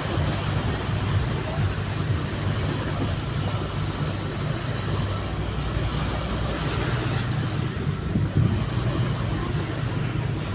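Low, steady drone of a ship's engine, with wind buffeting the microphone.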